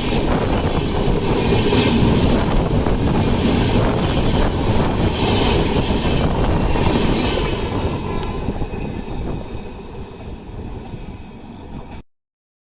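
Train running over a railway bridge: a loud, steady rumble of wheels on the track that fades away over the last few seconds, then cuts off suddenly.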